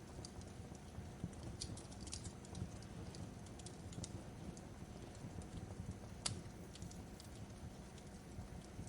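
Wood fire crackling in a fireplace: a steady low rumble of burning with scattered sharp pops and snaps, one louder snap about six seconds in.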